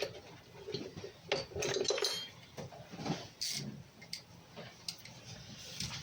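Metal hand tools and engine parts clinking and knocking irregularly, in short separate clanks.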